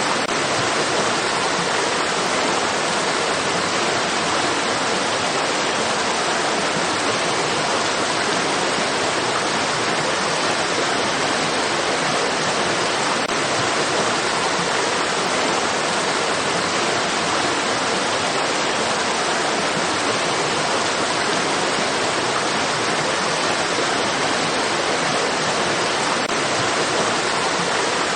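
Steady rushing of flowing stream water: an even, unbroken hiss that does not change.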